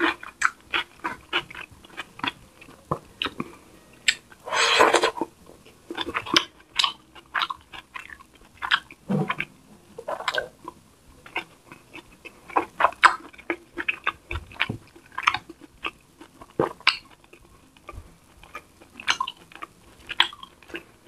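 Close-miked mukbang eating sounds: wet chewing, lip smacks and mouth clicks as soft fish and rice are eaten by hand, with a louder noisy stretch about four to five seconds in.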